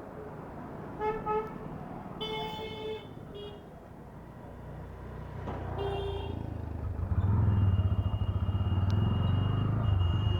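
Traffic horns honking around a moving motorcycle: several short honks in the first six seconds, two quick ones about a second in. From about seven seconds the motorcycle's engine gets louder as it pulls away, with a steady high tone over it.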